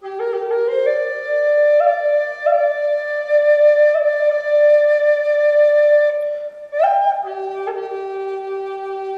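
Background music: a solo flute playing a slow melody. Its notes step upward and are held long, then it leaps to a higher note near the end before dropping back to a low held note.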